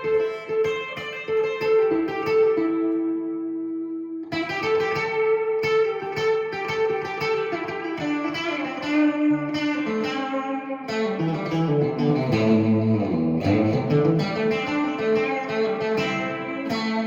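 Tokai AST 114SH Strat-style electric guitar played clean through the bridge pickup in single-coil mode with the tone rolled off a little: a picked riff that keeps returning to one high note over moving lower notes. It stops briefly about four seconds in, and a run falls and climbs back through the low strings near the middle.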